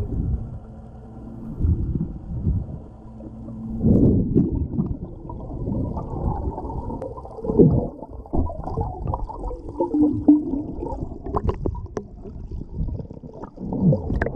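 Muffled water sloshing and gurgling close to the microphone, swelling and easing unevenly, with a few sharp knocks in the second half.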